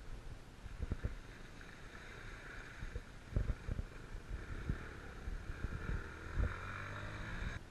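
Small enduro motorcycle engine running off-road, with wind buffeting the microphone and scattered dull knocks. The engine's steady tone grows plainer near the end, then drops away sharply.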